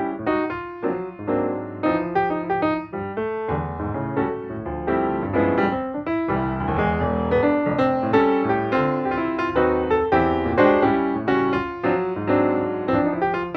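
Background piano music, a busy run of notes played without pause.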